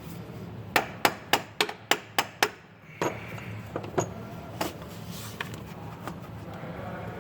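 Hammer striking metal: a quick run of about seven sharp blows over roughly two seconds, then a few scattered, lighter hits. The blows are working a seized, corroded EGR valve loose on a 6.4 Powerstroke diesel.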